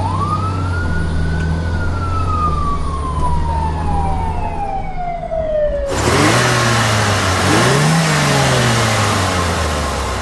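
A siren wails once over a steady engine hum, rising quickly and then falling slowly. About six seconds in it cuts suddenly to a louder, noisier engine revving up and down.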